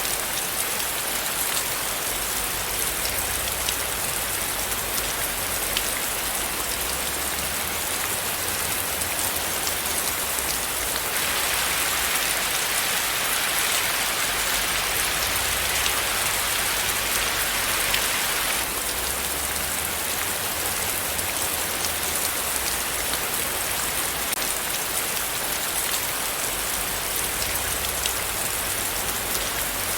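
Steady rain falling on a surface, a constant hiss dotted with the patter of individual drops. It grows heavier for several seconds in the middle, then settles back.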